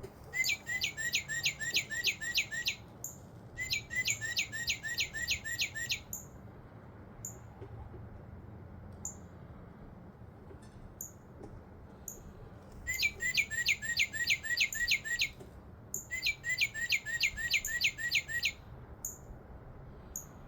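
Northern cardinal song: four phrases of quick, repeated downslurred whistles, about three or four notes a second. Two phrases come in the first six seconds, and two more follow after a pause of about seven seconds.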